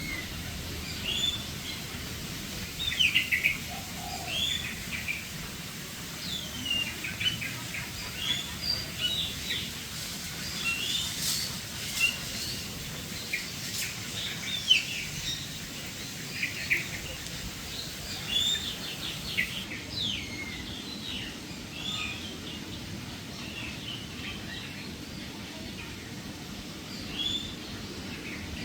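Many birds chirping and calling together: short, quick, overlapping calls, busiest over the first two-thirds and thinning toward the end, with a few sharp clicks around the middle.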